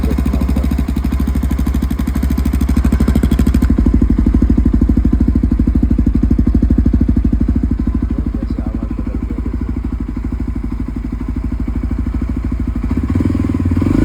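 Yezdi Adventure motorcycle's single-cylinder engine idling steadily through its exhaust, in an even, rapid pulse, picking up slightly near the end.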